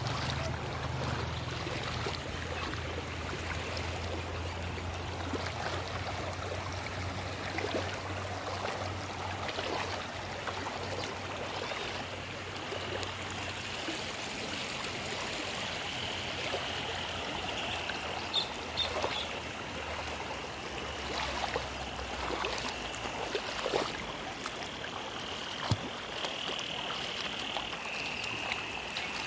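A river swollen by heavy rain, its water rushing steadily, with a low hum under it in the first half. A steady high-pitched sound joins about halfway through.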